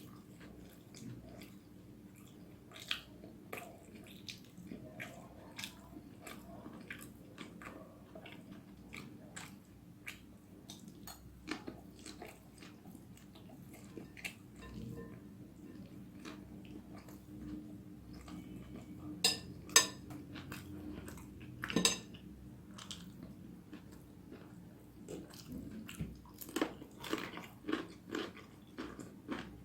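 Close-up eating sounds of someone chewing spicy vegetable noodles, with many small wet clicks. A few louder clinks of a utensil against the dish come about two-thirds of the way in.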